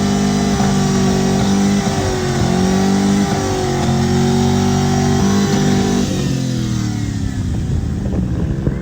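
Truck engine held at high revs, steady with a few brief dips, pushed so hard that onlookers expect it to blow up. About six seconds in, the revs drop away.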